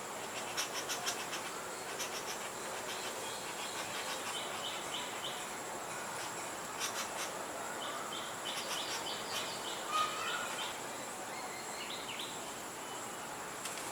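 Outdoor garden ambience: a steady high insect drone with birds calling in short runs of quick chirps, a few sharp clicks about a second in, and a single rising call near the end.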